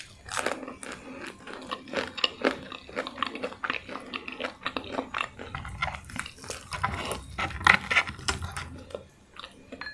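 Close-miked eating sounds: a person biting and chewing food, an uneven run of wet mouth clicks and crunches, loudest a little before the end and thinning out at the very end.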